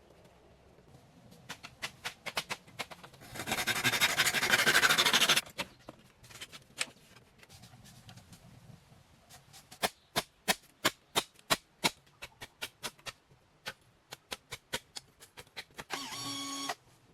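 Scattered sharp knocks, then a burst of rushing noise lasting about two seconds, then a fast run of sharp knocks at about three a second. A pitched tone starts near the end.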